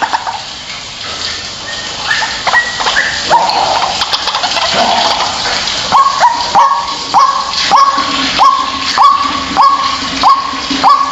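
White-breasted waterhen calling. Sharp upward-slurred notes come irregularly at first, then settle about halfway through into a steady run of about two calls a second.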